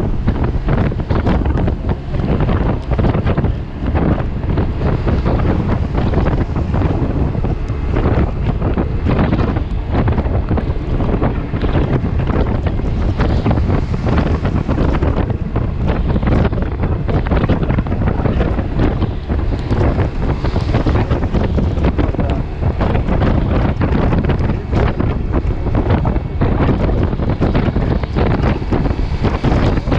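Wind buffeting the microphone of a Yamaha T-Max 530 maxi-scooter riding at road speed in heavy rain. A loud, dense rushing noise with constant gusty thumps, with no letup.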